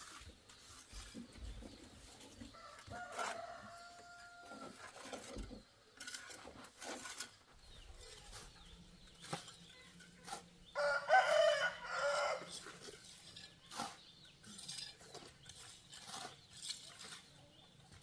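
Chickens clucking and a rooster crowing, with scattered clicks and knocks; the loudest call comes a little past halfway.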